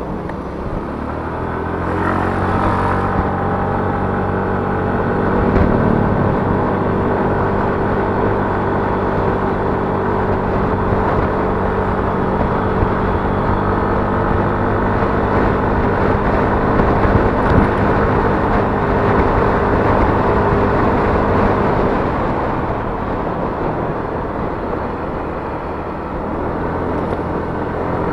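Yamaha Mio S 125 scooter's single-cylinder engine running on the road, with wind and road noise on the chest-mounted microphone. The engine picks up over the first two seconds, holds steady, then eases off about 22 seconds in.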